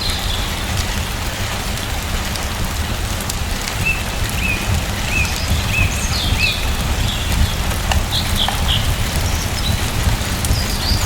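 Steady rain falling, with a bird giving a few short chirps in the middle.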